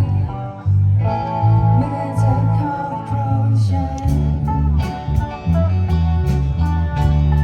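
A live band playing: guitars over bass and drums, with a sung or held melodic line early on, the drums coming in steadily about four seconds in.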